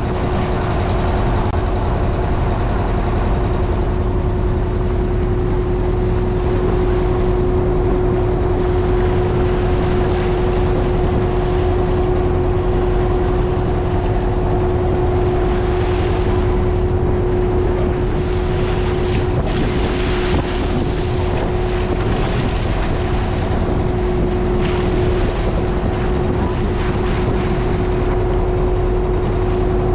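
Motorboat engine running steadily under way on a river, a constant hum over a low rumble, with wind buffeting the microphone.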